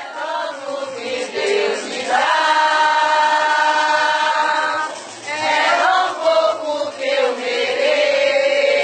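A group of voices singing a capoeira song together in chorus, holding one long note for about three seconds partway through.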